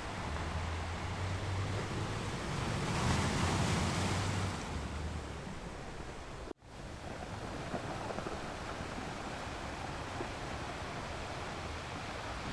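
Ocean surf washing onto a shore: a wave swells and breaks about three seconds in, then eases off. The sound cuts out for a split second about six and a half seconds in, then a steady, lower wash of surf continues.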